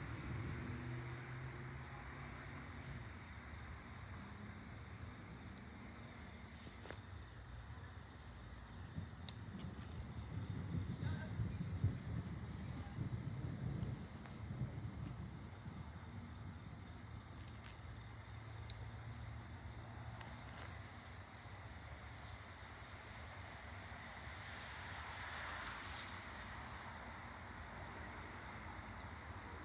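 A steady chorus of night insects trilling in one high, unbroken band, over a low rumble that swells for a few seconds near the middle.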